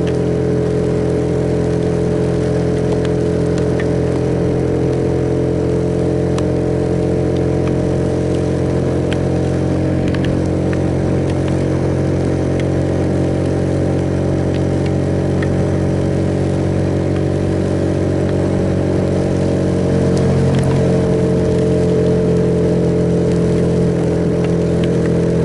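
Suzuki Yes single-cylinder motorcycle engine running steadily while riding, heard from a camera mounted on the bike. About 20 seconds in, the engine note shifts and gets a little louder.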